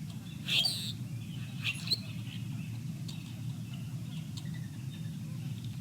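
Birds calling, with faint chirps throughout and two louder, harsher calls about half a second and nearly two seconds in, over a steady low background rumble.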